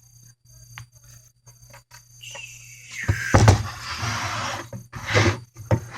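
Handling noise of a plastic Lego set being picked up and moved: scraping and rustling with several knocks, starting about two seconds in and loudest from about three seconds in.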